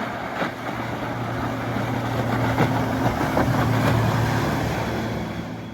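Twin outboard engines of a passing Boston Whaler 320 Outrage center-console running at speed, with the rush of hull and wake; the drone swells to its loudest about four seconds in, then fades.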